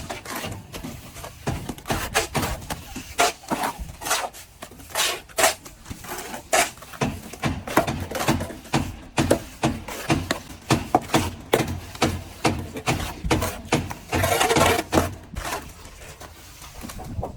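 Plastering tools knocking and scraping in an irregular run of short, sharp strokes, a few each second, with a longer rough noise lasting about a second around fourteen seconds in.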